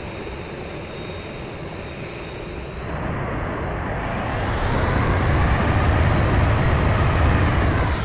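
Jet engines of a Boeing 787-10 powering up: a steady engine noise that grows louder about three seconds in, building to a heavy low rumble with a faint rising whine.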